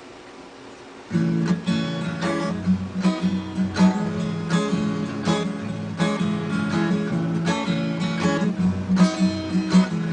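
Acoustic guitar strumming chords, starting suddenly about a second in after a faint background hiss: the instrumental introduction to a song.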